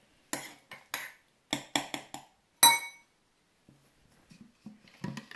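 A utensil knocking and clinking against a bowl as slime is stirred: about eight sharp knocks in the first three seconds, the loudest one ringing briefly, then softer low sounds near the end.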